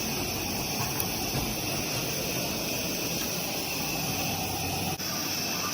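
Steady hiss and running noise of two double-headed Accucraft live steam Shay locomotives on a garden railway track, with a brief dropout about five seconds in.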